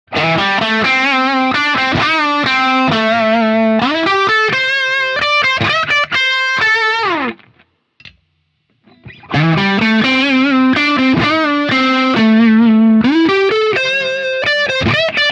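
Electric guitar through a J.Rockett El Hombre overdrive pedal, a distorted bluesy riff with string bends and vibrato. It breaks off about seven seconds in and the riff starts again a second and a half later.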